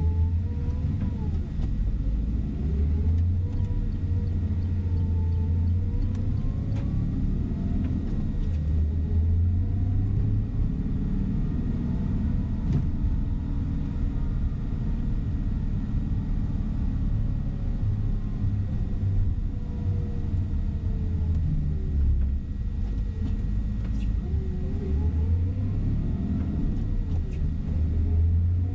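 Tour coach's diesel engine and road noise heard from inside the cabin, a steady low rumble with the engine note rising and falling as the bus drives.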